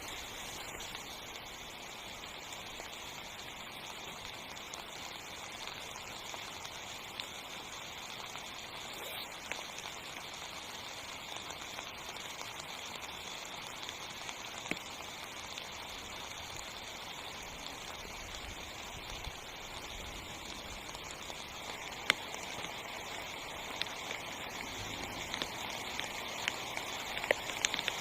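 Rain falling on a tent: a steady hiss with scattered sharper drop impacts, a few more of them near the end.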